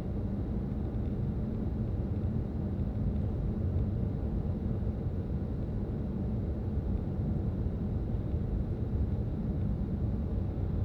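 A car driving at steady speed: a constant low rumble of road and engine noise, with a faint steady hum and no changes in pace.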